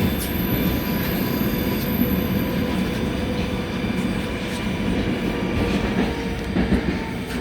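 Train running on rails: a steady rumble of wheels with a few scattered clicks, and a faint high tone over the first couple of seconds.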